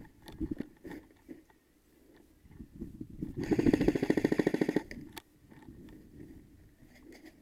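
Airsoft electric gun firing a full-auto burst of about a second and a half: a rapid, even string of shots starting about three and a half seconds in. A few scattered knocks and one more single sharp click come around it.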